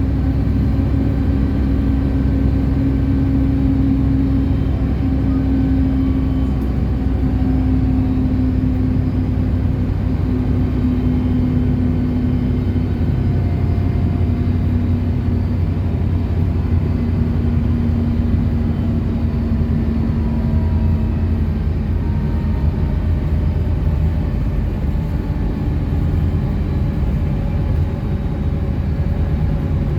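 City bus driving along the road: steady engine and road rumble, with a whine that slowly drops in pitch over about twenty seconds.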